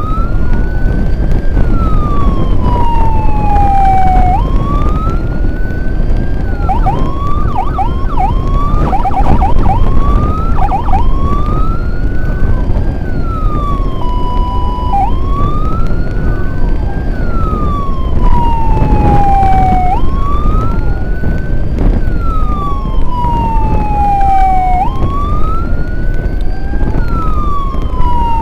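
Electronic emergency siren sounding a wail: each cycle rises, then falls slowly over a few seconds and repeats. A stretch of quick short yelps comes about a third of the way in, and a brief steady tone follows, all over a steady low rush of noise.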